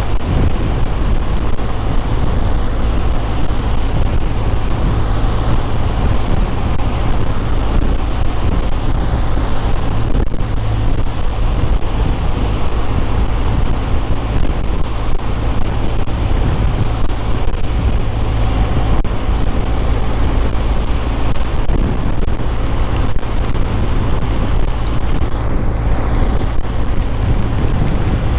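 Steady wind and road noise from riding a BMW R1200 GS motorcycle, with a heavy low rumble of wind buffeting the microphone.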